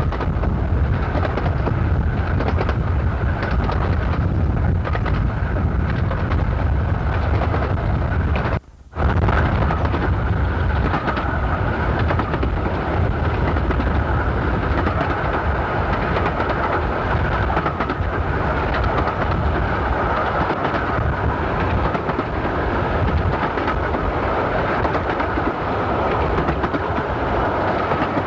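Miniature steam railway train running, heard from on board: a steady rumble of the carriages on the track with rail noise. The sound drops out suddenly for about half a second around nine seconds in.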